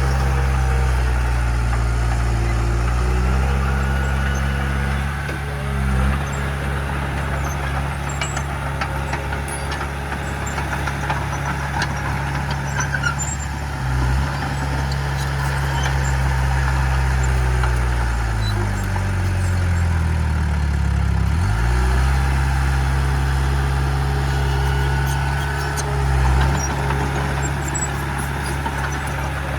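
Heavy diesel engine of earthmoving machinery running steadily. Its pitch dips briefly a few times, and about two-thirds of the way through it sags slowly, as if lugging, then comes straight back up.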